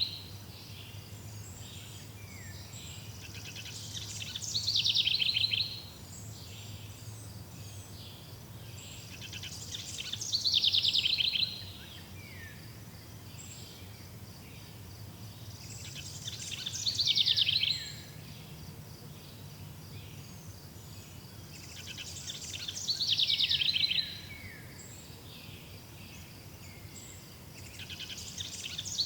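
A songbird repeating the same song phrase about every six seconds, five times, each phrase about two seconds long, high-pitched and ending in a few falling notes. Underneath runs a faint, steady, high pulsing trill.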